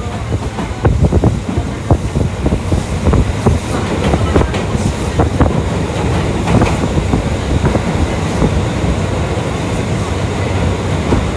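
Tokyu Toyoko Line train running on the rails: a steady low rumble of wheels with many irregular clacks over rail joints and points.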